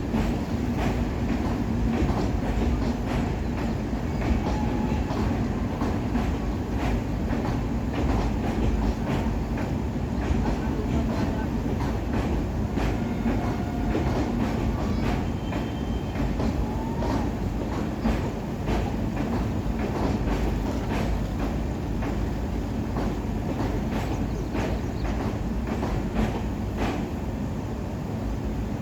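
Train running on rails: a steady rumble with irregular clicks of the wheels over the track.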